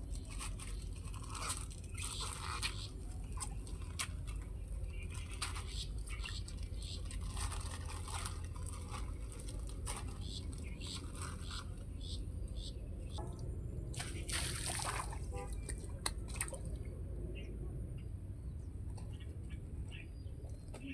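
Salt being scattered by hand into a fish pond: irregular small splashes and crunches over a steady low rumble, with a longer, louder splash about two-thirds of the way through.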